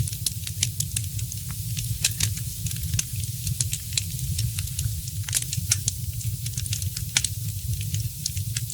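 Wood fire in a fireplace crackling, with frequent irregular sharp pops and snaps over a steady hiss and a low rumble.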